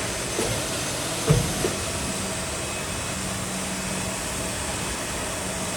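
Paper lid machine's motors running with a steady hum and hiss, a low hum growing stronger about three seconds in, and a single short thump just over a second in.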